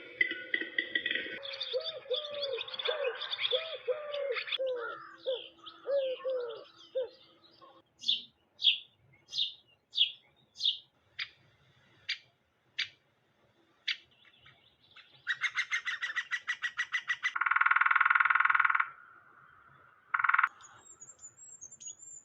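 Calls of several wintering birds, one after another: mixed chirping with repeated low cooing notes, then a run of high falling whistles, a fast rattle, two harsh calls, and a thin high call near the end.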